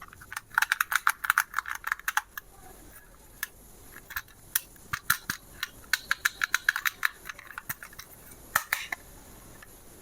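Rapid clicking and rattling of small hard objects, in two quick runs with single clicks between them.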